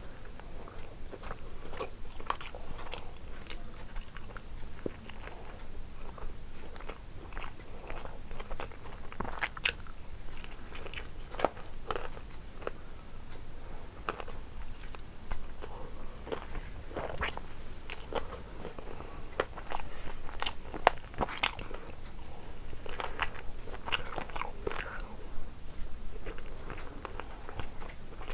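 A person biting and chewing crunchy fried food close to the microphone, with irregular crisp crunches and crackles throughout.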